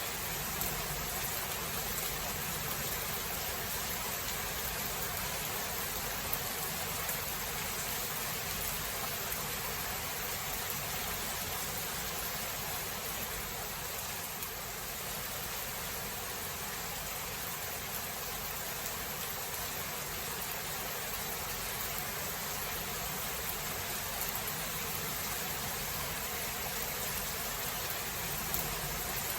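Steady rain falling in a thunderstorm, an even hiss with a few sharper drop ticks.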